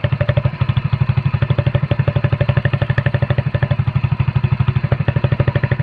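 Hero Splendor motorcycle's single-cylinder four-stroke engine idling through an exhaust fitted with a cut-open soft-drink can, a steady rapid putt-putt of about a dozen pulses a second, made to sound like a KTM Duke.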